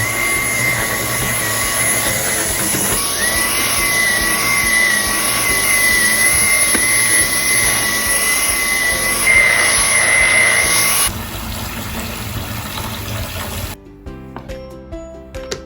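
Vacuum cleaner running with a steady rush of air and a high motor whine, switched off about eleven seconds in. Soft background music with plucked or keyed notes comes in near the end.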